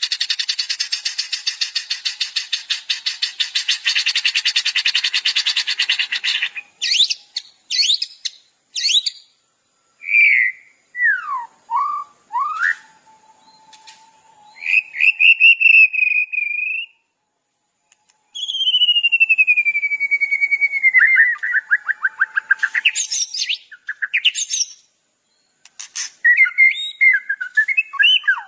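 Recorded songbird song used as masteran training audio for caged songbirds. It opens with a fast buzzy trill lasting about six seconds, then moves into varied whistles and chirps, including a long falling whistle about two-thirds of the way through.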